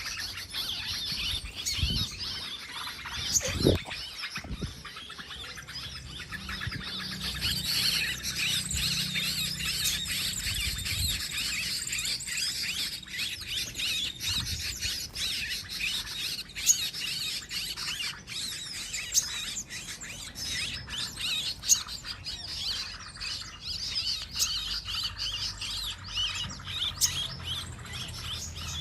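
Many small birds chirping and twittering rapidly, their calls overlapping without a break. There are a couple of low knocks about two and four seconds in.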